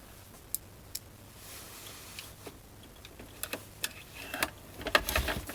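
Small clicks and taps of a screwdriver and screws being worked into a boombox's plastic cabinet: a few scattered clicks at first, then a quicker run of them in the second half.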